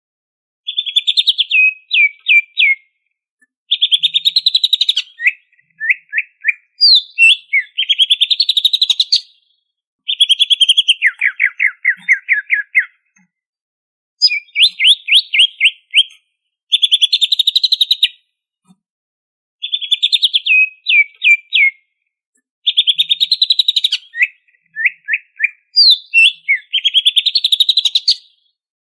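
Cucak ijo (green leafbird) singing in repeated loud bursts of fast chattering trills and sweeping notes, each burst one to two seconds long with short pauses between.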